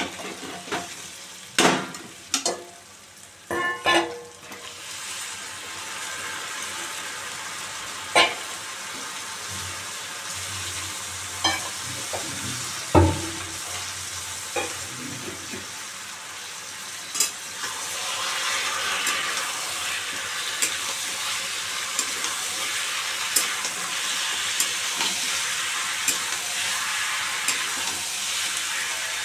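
Onions frying and sizzling in oil in a kadhai, with a metal spatula scraping and knocking against the pan in the first few seconds. About halfway through there is a heavy thump as raw chicken pieces go into the pan, and the sizzle then grows louder and denser.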